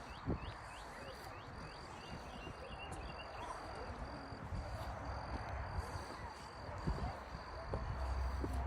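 Outdoor ambience: a bird repeats a quick series of short falling chirps, about three a second, for the first three seconds or so, over a steady hiss and a low rumble that grows stronger in the second half.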